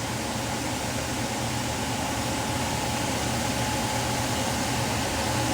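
Steady mechanical hum and hiss from a running machine, with a few held tones that stay unchanged throughout.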